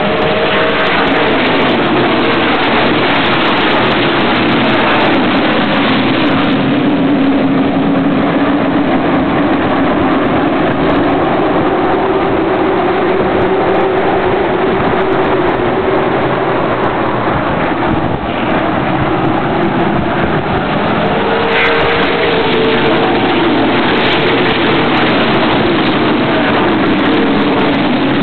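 Race car engines running hard as a field laps the track, a continuous loud drone whose pitch slides up and down as cars pass.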